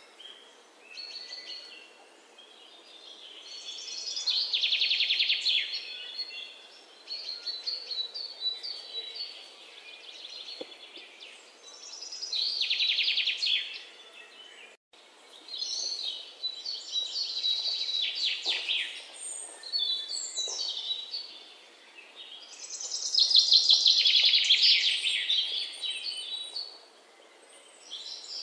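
Birdsong: a bird singing high, rapid trilled phrases a second or two long, one after another every few seconds.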